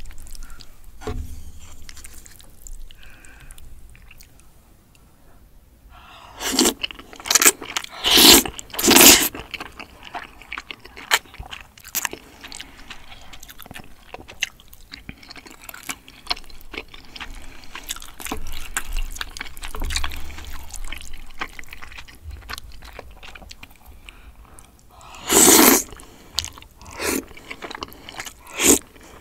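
Close-miked eating: a person chewing cream spaghetti and spicy braised chicken, with small clicks throughout and several short loud bursts, a cluster about a quarter of the way in and one near the end.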